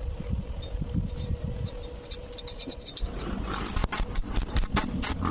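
Electric arc welding crackling in irregular sharp snaps, starting sparse about two seconds in and growing dense from about three seconds, over a low rumble.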